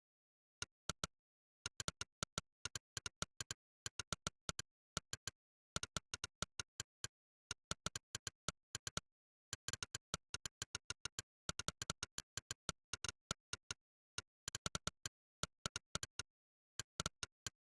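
Monkeytype's synthesized "click" keystroke sound, one short sharp click per key press, coming in quick irregular runs of several a second with brief pauses between words, over dead silence.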